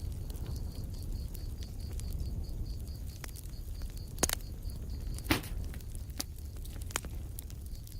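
Wood fire burning in a fireplace: a low rumble with scattered crackles and two sharper pops about four and five seconds in. A faint high chirping pulses about four times a second behind it for the first half.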